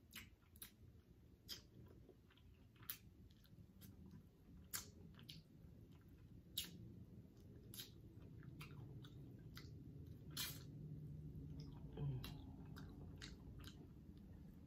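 Quiet, close-miked chewing of roast Cornish hen, with irregular sharp mouth clicks and lip smacks.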